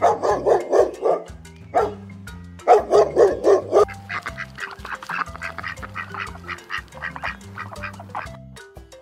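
An animal calling in quick runs of about five calls a second, two loud runs in the first four seconds, then softer, higher, rapid calls, over background music.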